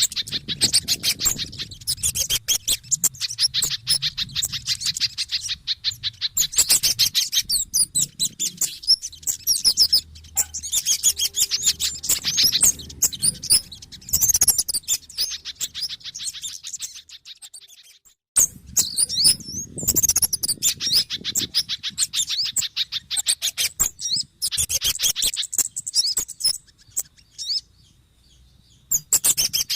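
Bird-lure recording of agitated calls from a mix of small birds (kemade, sogon and pijantung, the spiderhunter): dense, rapid, high chirping. It breaks off briefly about two-thirds of the way through and then starts again abruptly.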